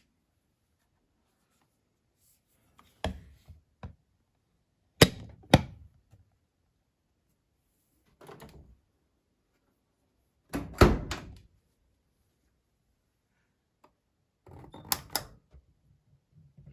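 A series of separate knocks and clunks a few seconds apart, some as quick double or triple hits. The loudest come about five seconds in and near eleven seconds, with silence in between.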